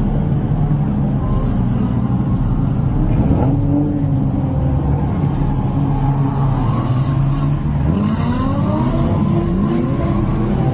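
Drift cars' engines idling with a steady low drone, while other engines rev up and down as cars drift, with rising and falling revs about three seconds in and again around eight seconds.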